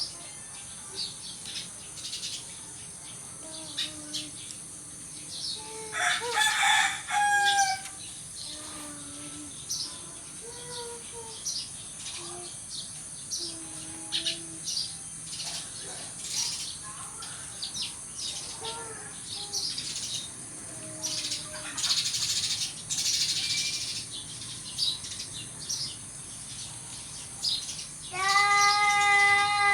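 Sparrows chirping in quick, short, high notes throughout, with a louder drawn-out call about six seconds in and another near the end.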